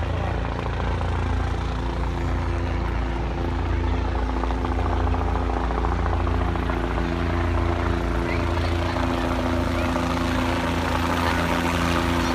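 Police helicopter running close by as it comes in to land: a loud, steady drone of rotor and engine with a deep low rumble.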